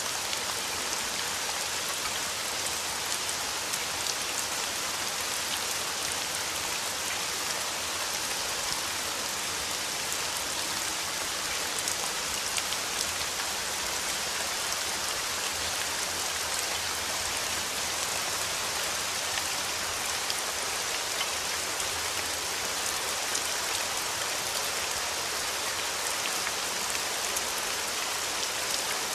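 Heavy rain falling steadily, a dense even hiss with the fine patter of individual drops.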